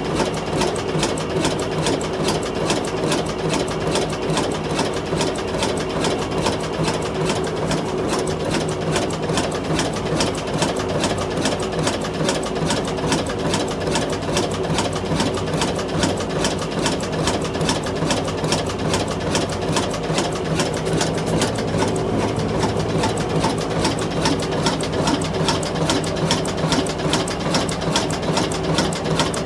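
Old diesel engine running steadily with a fast, even clatter.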